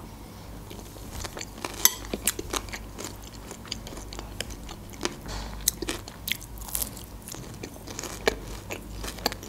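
Close-miked eating sounds: chewing and biting into a crispy breaded chicken cutlet, with irregular crunches and sharp mouth clicks.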